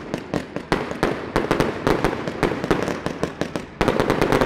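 Fireworks going off close by: a rapid run of sharp cracks and bangs, several a second, growing into a dense volley near the end.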